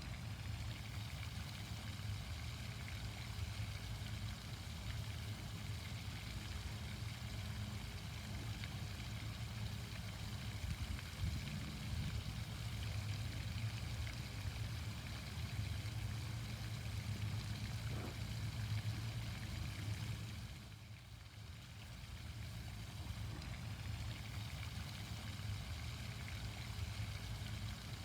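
Garden fountain's water splashing and running steadily, with a low rumble underneath; it dips briefly about two-thirds of the way through.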